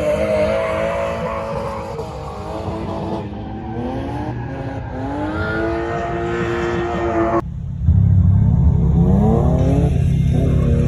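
Drift car engine revving up and down repeatedly, its pitch rising and falling. About three-quarters of the way through, the sound cuts off and a louder, deeper, steady sound takes over.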